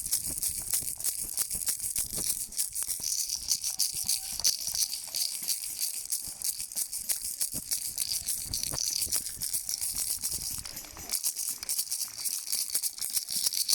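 Neighbours in a street making noise together: a dense, continuous rattling and clattering of hand-shaken and struck noisemakers, with clapping, kept up steadily without a break.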